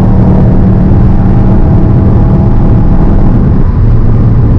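Subaru flat-four boxer engine running at a steady speed, a loud, even low drone with no revving.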